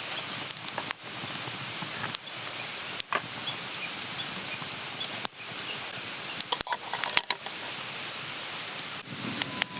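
Wood campfire crackling: a steady hiss with irregular sharp pops and snaps.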